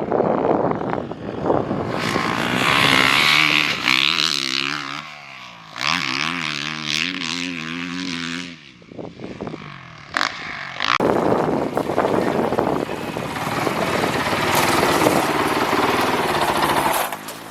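Honda CRF450R four-stroke motocross bike ridden hard around a dirt track, its engine revving up and down through the gears with wind rushing past. The revs swing most plainly in the middle, and the engine drops off briefly before it is back on the gas.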